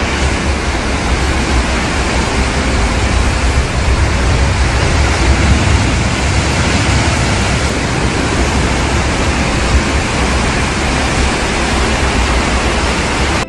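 Loud, steady rushing noise spread evenly from deep rumble to hiss, cutting off abruptly at the end.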